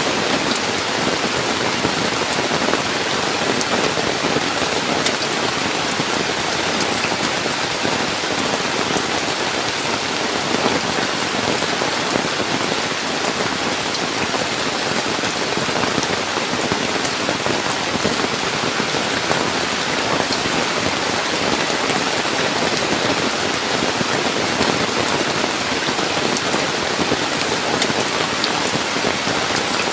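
Heavy rain falling steadily: a dense, even hiss with many small drop hits mixed in.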